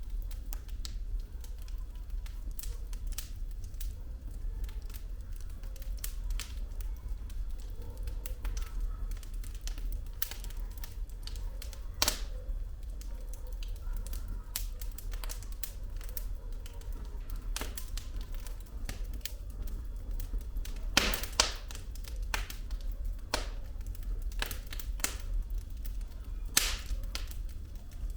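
Wood fire burning in a fireplace, the logs crackling with irregular sharp pops over a low steady rumble. There are louder pops about twelve seconds in and again around twenty-one seconds.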